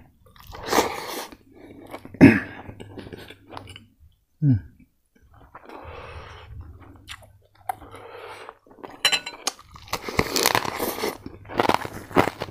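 Mouth chewing on crispy fried pork and rice, in irregular spells. About ten seconds in comes the loudest part, a dense crunching as a fresh bite of the fried pork is chewed.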